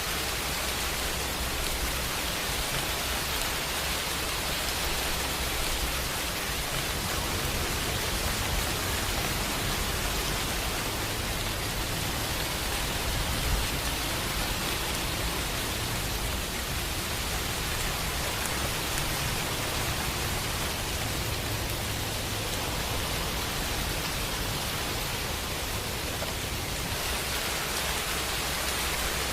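Steady rain, an even hiss of many drops with no single drop or strike standing out, over a low rumble that grows stronger through the middle, typical of distant thunder.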